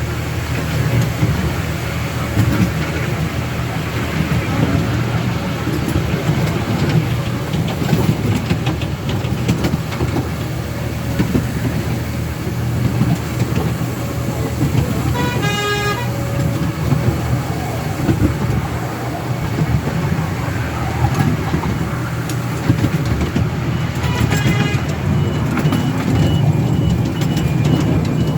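A miniature railway train running, with a steady low rumble and clicks of the wheels on the track. The locomotive sounds a short toot about halfway through and another near the end. A faint, regularly repeating high beep starts near the end.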